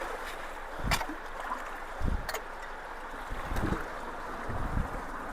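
Water rushing steadily through a cleared culvert, with a few low thumps and two sharp clicks.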